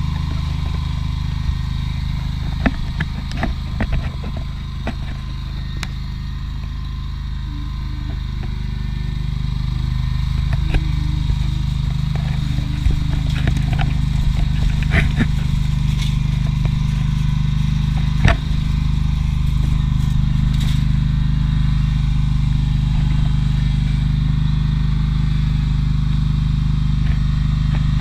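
Tractor engine running steadily, growing slightly louder after about ten seconds, with scattered clicks and knocks on top.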